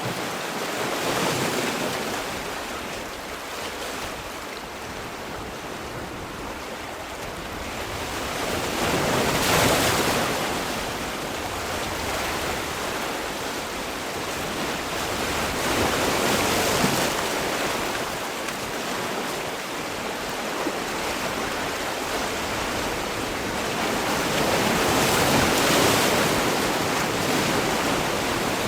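Sea waves breaking on the shore in a steady wash, with four slow surges as larger waves break, the loudest about a third of the way in and the last near the end.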